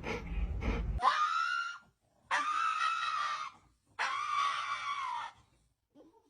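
Three long, high-pitched scream-like calls, a short pause between each, following a second of noise that cuts off abruptly.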